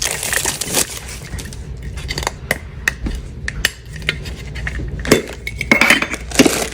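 A Funko Soda can being worked open by hand: irregular sharp clicks and light metallic clinks.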